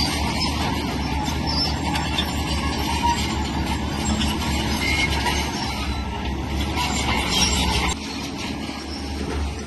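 Shantui crawler bulldozer working: a steady diesel engine under the clanking and squealing of its steel tracks, running continuously, a little quieter about eight seconds in.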